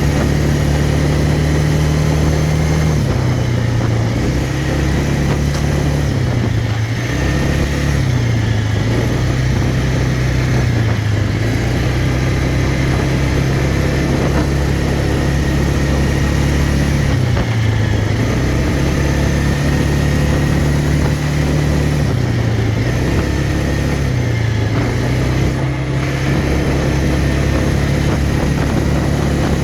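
Quad bike engine running continuously, its speed easing down and picking back up every few seconds.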